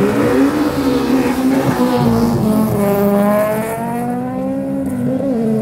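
Car engine revving hard as the street-race cars launch down the strip, its pitch climbing for a few seconds, dropping briefly near the end and climbing again, as at a gear change.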